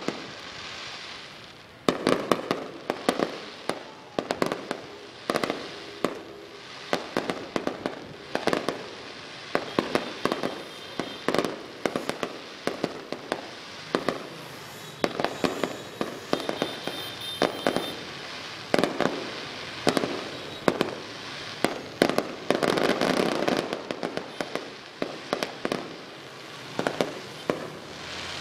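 Aerial fireworks display: a rapid, continuous run of sharp shell bursts, several a second, over steady crackling, thickening into a dense barrage a little past the three-quarter mark.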